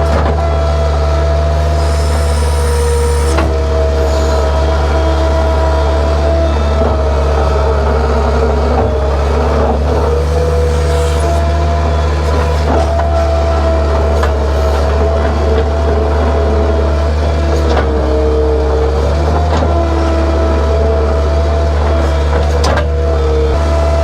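Engine of a heavy machine running steadily at constant speed, with small shifts in pitch a few seconds in and again about two-thirds of the way through.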